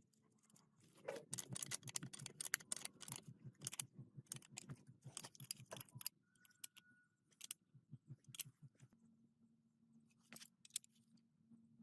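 Small metal objects clinking and rattling in quick, irregular bursts, densest in the first half, with a few more clinks later.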